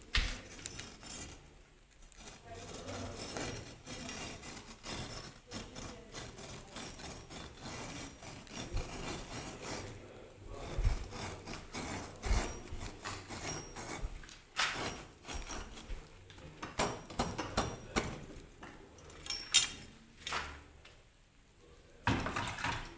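Hand masonry work: irregular scraping and rubbing with scattered sharp knocks, as bricks and mortar are handled and set.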